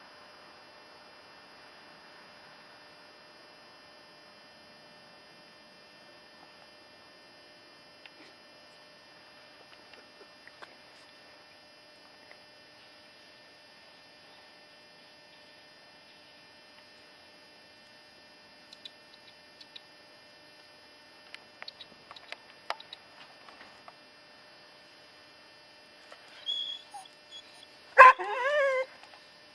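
A faint steady hum with scattered light ticks, then near the end a sudden knock followed by a dog's short, wavering yelp.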